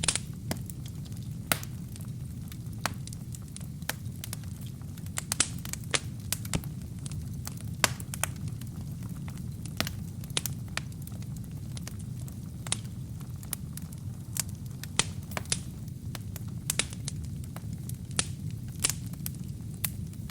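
Wood fire burning in a fireplace: a steady low rumble of flame with irregular sharp crackles and pops of burning logs, a few of them louder.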